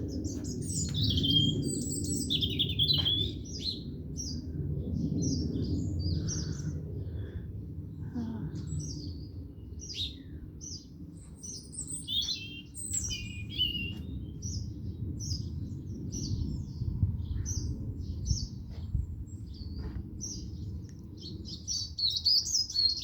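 A flock of small birds in a tree chirping and twittering, many short overlapping calls and trills coming thick and fast. A steady low rumble runs underneath.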